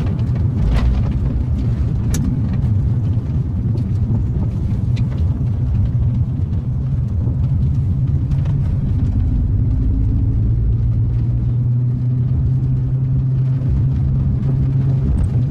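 Car interior road noise: a steady low engine and tyre hum while driving, with a few light knocks and rattles.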